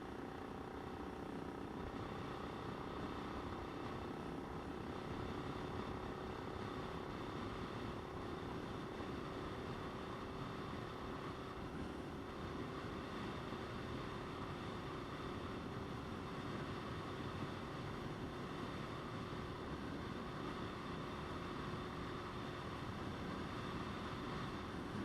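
Motorcycle riding at a steady speed, its engine holding one even note under constant wind and road noise.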